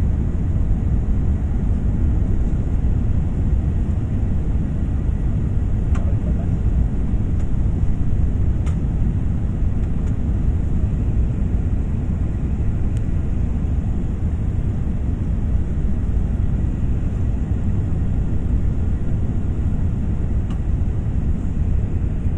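Steady low rumble of a jet airliner's engines and airflow, holding level without rising or falling, with a few faint clicks.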